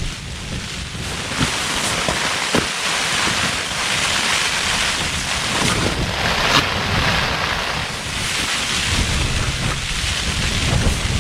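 Strong gusting wind and driving rain on a Lanshan 2 Pro trekking-pole tent, heard from inside the tent, with heavy wind rumble on the microphone and a few sharp taps.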